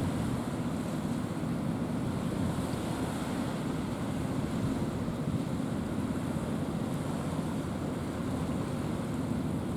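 Steady wind buffeting the microphone over the noise of sea water, a low rumbling hiss with no distinct events.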